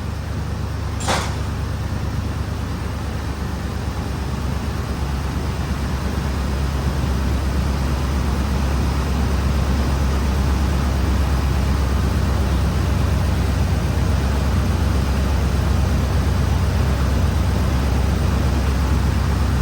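2005 Ford Explorer's 4.6-litre V8 idling steadily under the hood, with a short sharp noise about a second in. No vacuum-leak hiss is picked out: after a fresh EGR valve swap it sounds pretty good.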